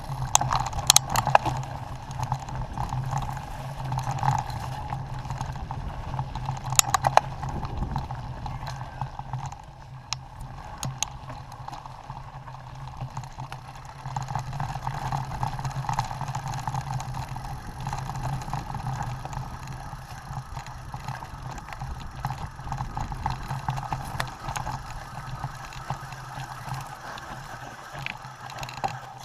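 Mountain bike being ridden along a dirt trail: continuous rolling tyre and wind noise with sharp rattles and clacks from bumps, the loudest about a second in and around seven seconds.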